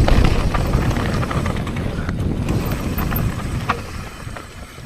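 Mountain bike rolling down a dirt trail: wind rumble on the microphone with the tyres and bike rattling over the ground and scattered knocks, growing quieter over the last couple of seconds.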